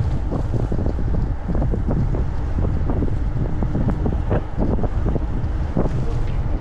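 Heavy wind buffeting the microphone as a low, steady rumble, with many short knocks and rattles scattered through it.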